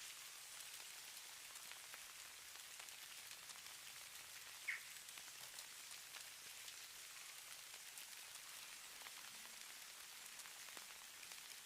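Light precipitation pattering faintly on surfaces: a quiet, steady high hiss with scattered soft ticks. One brief high chirp sounds about halfway through.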